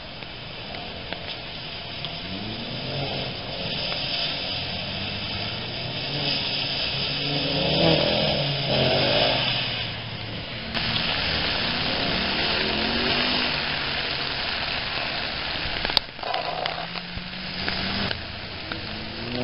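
2015 Mustang GT's 5.0-litre V8 revving up and down as the car is driven hard through an autocross course, over a steady hiss of rain. The sound breaks off abruptly twice.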